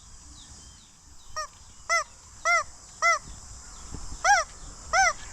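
Goose honking: a run of short, nasal honks about two a second, each rising and falling in pitch, with a brief pause before a second run near the end.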